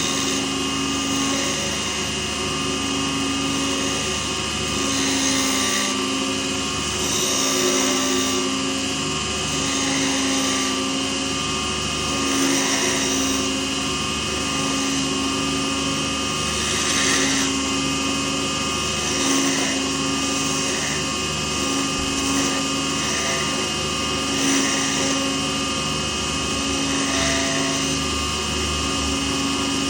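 Small lathe running steadily with a constant motor whine, and a hiss that swells about every two and a half seconds as a tool or abrasive works the spinning blank.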